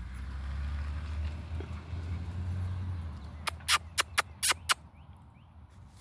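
Low rumble of wind or handling on the microphone, then a quick run of six sharp clicks in just over a second, about three and a half seconds in.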